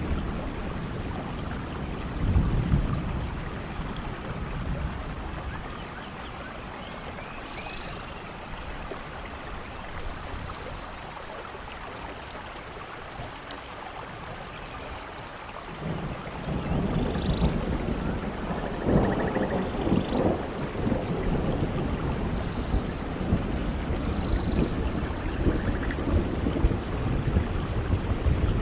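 Steady rain with rolling thunder. A deep rumble eases off in the first few seconds and swells back a little past halfway, carrying on to the end. A few faint short chirps sit above the rain.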